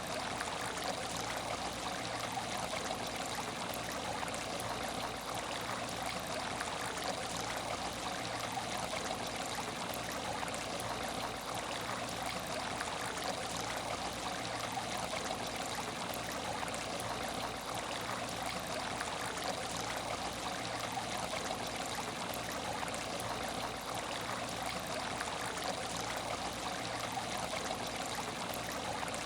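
Water trickling and splashing steadily from an aquarium's filter outflow into the tank, with a faint steady hum underneath.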